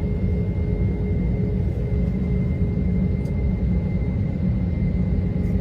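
Airliner cabin noise: a steady low rumble of the jet engines and airflow, with a thin steady whine on top.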